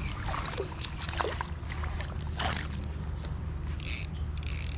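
Creek water sloshing and splashing in several short bursts over a steady low rumble.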